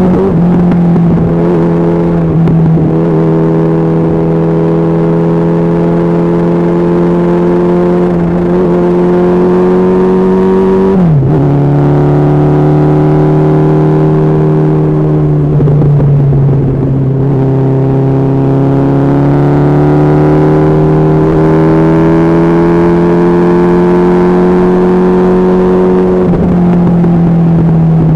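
Honda CB1300SF's inline-four engine running under way, its pitch climbing slowly as the bike gathers speed. It drops sharply about eleven seconds in at a gear change, rises again, and eases down near the end.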